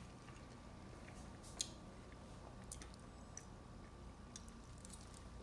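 Faint, soft chewing of a mouthful of baked macaroni and cheese, with a few short, sharp mouth clicks.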